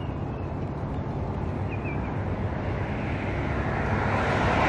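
A motor vehicle approaching on a nearby road, its engine hum and tyre noise growing steadily louder. A small bird chirps faintly about two seconds in.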